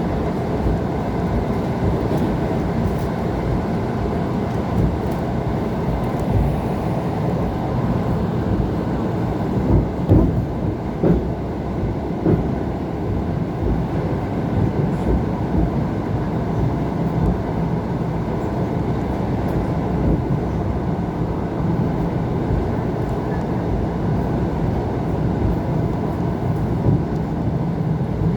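ET2 electric multiple unit running at speed between stations, heard from aboard as a steady rumble of wheels on rail. A few brief knocks come about ten seconds in.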